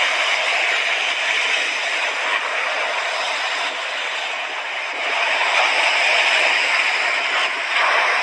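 Sea waves washing onto the shore: a steady rushing surf that eases off in the middle and swells again about five and a half seconds in and once more near the end.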